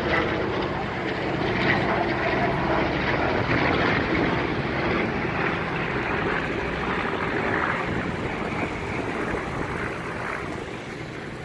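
Propeller-driven WWII warplane flying past with its engine running steadily, the sound slowly fading away near the end.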